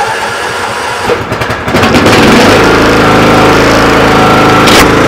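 A Craftsman lawn tractor's Kohler 16 horsepower engine is cranked on the starter with the choke on, catches about two seconds in and settles into a steady, loud run. It is a cold start after two months standing.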